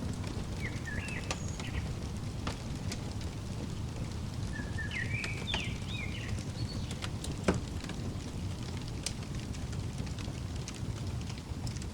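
Crackling fireplace: a steady low rumble of burning wood with scattered sharp pops, one pop louder than the rest a little past the middle. Twice, a bird gives a short run of chirping notes over the fire.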